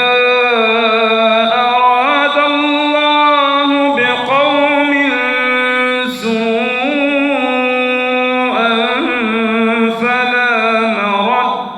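A man's voice reciting the Quran in the melodic, drawn-out tajweed style: long held notes with ornamented turns and glides, broken only by short pauses for breath about 4 s and 8.5 s in, and trailing off near the end.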